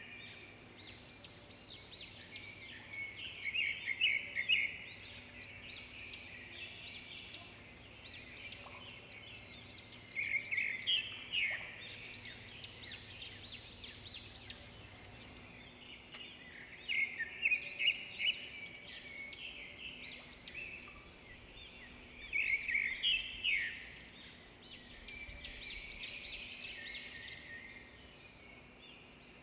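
Small birds chirping and twittering in repeated bursts of quick, high notes, the busiest spells a few seconds apart.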